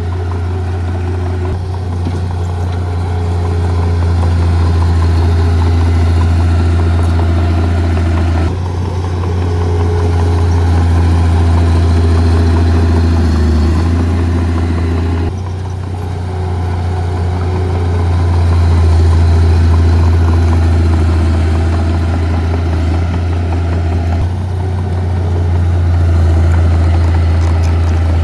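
Diesel engines of heavy earth-moving machinery running with a strong, steady low drone. The sound changes abruptly four times.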